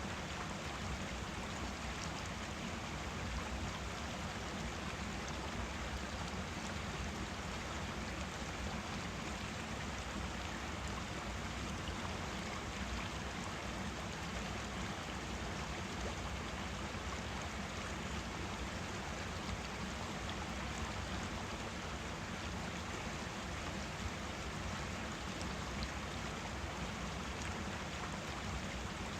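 Forest stream flowing steadily, an even rushing and babbling of water.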